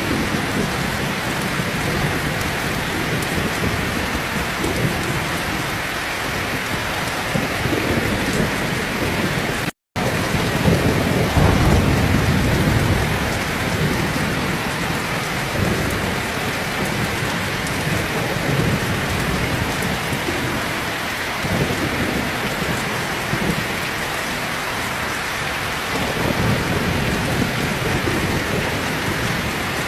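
Heavy rain pouring steadily, with thunder rumbling low underneath. The loudest rumble comes just after a split-second dropout in the audio about ten seconds in.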